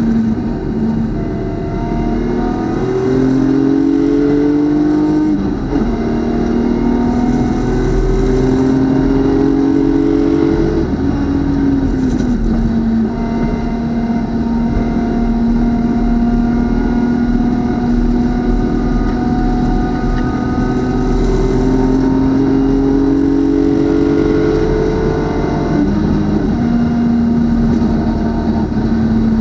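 BMW club race car's engine at racing speed: its pitch climbs hard under acceleration in the first few seconds, around ten seconds in and again from about twenty-two seconds, falling off sharply at each shift or lift. Between about thirteen and twenty-two seconds it holds one steady pitch.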